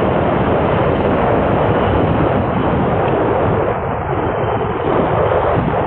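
Strong wind buffeting the microphone: a loud, steady rushing noise that eases slightly about four seconds in.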